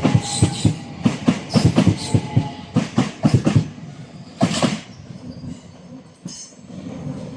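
Electric multiple-unit train passing, its wheels clicking over rail joints and pointwork in a quick irregular run. The clicks stop about two-thirds of the way in, leaving a fainter rumble that dies away.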